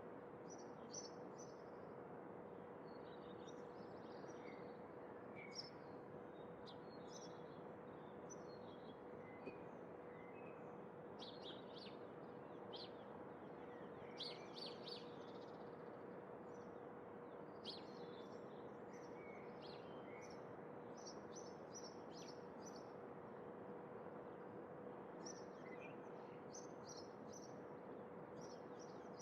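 Faint small birds chirping in short scattered calls, busier in the middle and near the end, over a steady background hiss with a faint constant hum.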